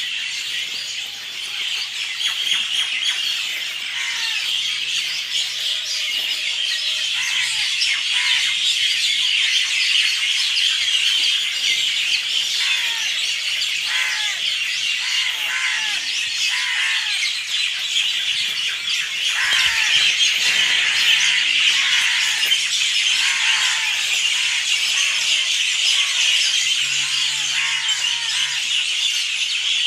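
Many birds chirping at once in a dense, unbroken chorus of short high calls, a little louder past the middle.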